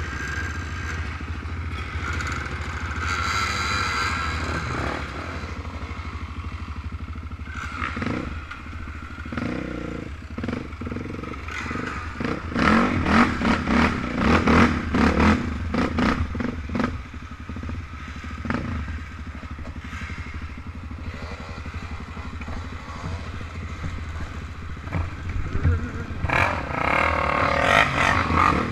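Off-road motorcycle and quad engines running, with a spell of clattering knocks and scrapes midway and engines revving up near the end.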